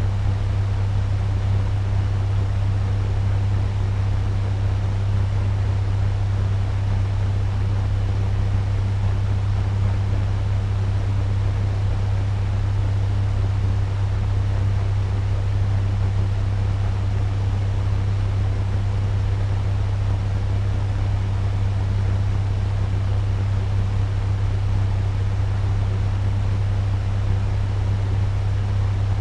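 Turbo fan running steadily at medium speed: an even rush of air over a strong low hum.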